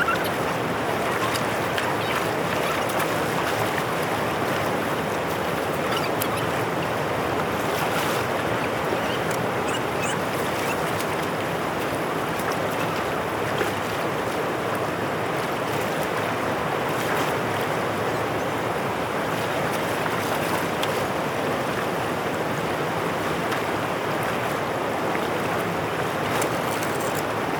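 Steady rush of floodwater flowing through a drain, with a few faint clicks.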